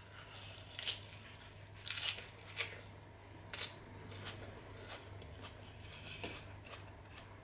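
Close-miked eating of a lettuce salad: a few short, crisp crunches of chewing spread over the seconds, with the fork picking food from a glass bowl.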